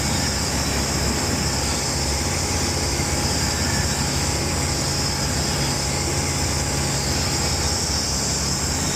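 Engine and propeller of an ICP Savannah S ultralight, its 100 hp Rotax running at a steady power setting, a constant drone with rushing wind hiss, heard from inside the cockpit.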